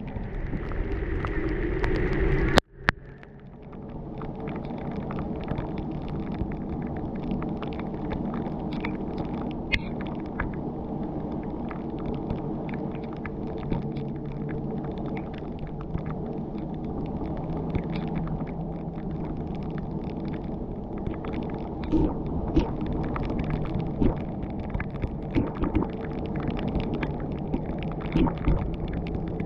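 A car driving on a wet mountain road: a steady low rumble of engine and tyres. A sharp knock comes about two and a half seconds in, followed by a brief drop in level, and scattered light ticks and knocks follow later.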